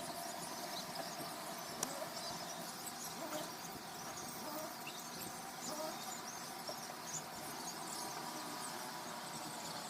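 Outdoor ambience: many small birds chirping in short scattered calls over a faint steady hum.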